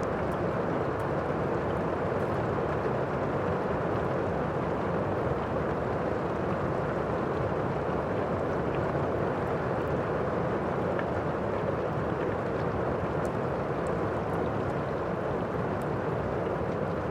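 Thunderstorm and fireplace ambience: steady, even rain noise with faint scattered crackles, and no thunderclap.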